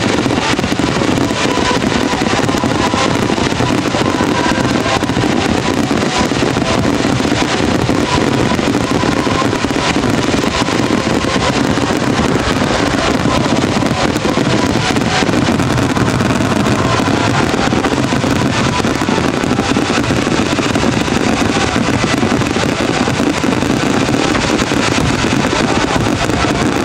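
Dense barrage of aerial fireworks shells bursting without pause, the bangs and crackle running together into one steady, continuous din.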